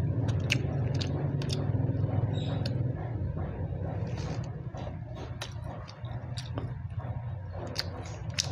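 Close-up eating sounds: chewing with scattered sharp mouth clicks. Under them a low vehicle engine rumble is loud at first and fades after about three seconds.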